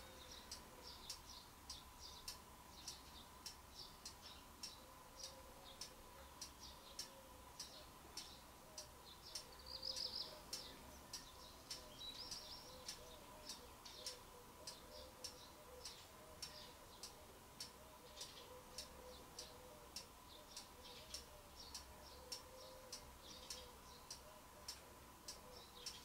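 Faint bird chirping, a short high chirp repeated about twice a second, with a brief twitter about ten seconds in and again a little later, over a faint steady high tone.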